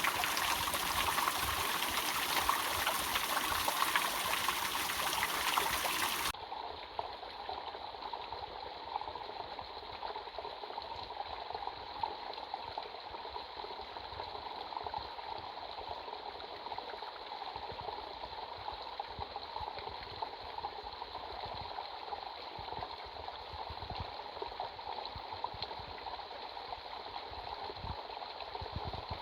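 Running water of a waterfall, a full steady hiss at first. About six seconds in it cuts suddenly to a softer, duller flow of water that carries on steadily.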